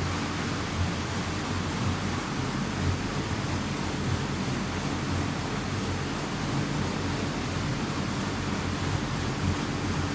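Wexiödisk WD-6 EA hood-type dishwasher running its wash, water spraying steadily over a low pump hum.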